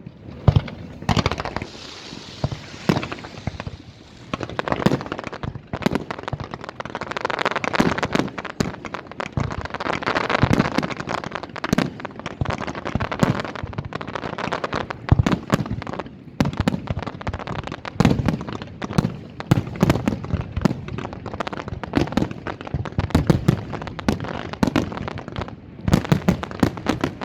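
Aerial fireworks display: many sharp bangs and pops in quick succession, with stretches of dense crackling between them.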